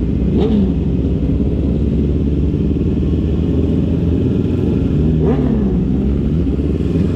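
Motorcycle engine running steadily on the move, under a heavy low rush of noise. Its pitch dips and climbs back twice, briefly about half a second in and more slowly about five to six seconds in.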